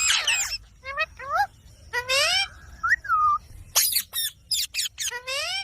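Ringneck parrot calling: a rapid series of short, shrill rising squawks, with a whistled note that rises and falls about three seconds in.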